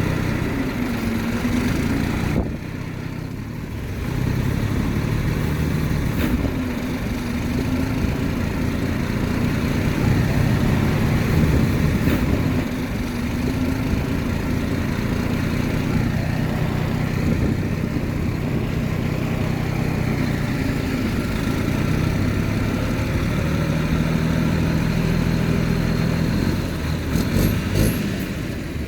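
Heavy diesel engine of earthmoving machinery running continuously, its pitch rising and falling slightly with load, with a short dip in loudness a few seconds in and a few light clicks near the end.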